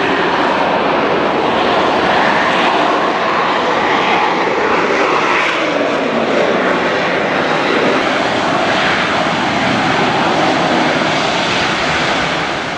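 Aircraft engines at a loud, steady roar, with a pitch that falls about midway as the aircraft passes by.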